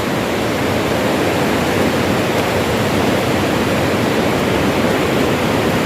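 Floodwater rushing in a swollen river, a loud steady noise of water without a break.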